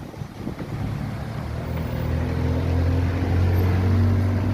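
An engine running with a steady low hum that grows louder over the first two seconds, then holds.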